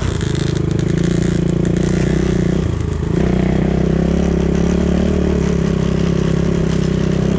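BSE 250 enduro motorcycle's single-cylinder engine running under throttle on a snowy forest trail. It eases off briefly about three seconds in, then picks up again and runs steadily.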